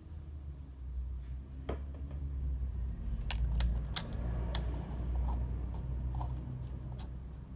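A handful of sharp, separate clicks and light knocks, the kind made by hand tools and small parts being handled during fuel filter work, over a low steady hum. The clicks come thickest about halfway through.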